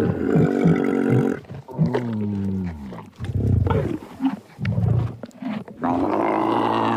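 A large animal giving a series of deep calls, several of them falling in pitch, with short pauses between them.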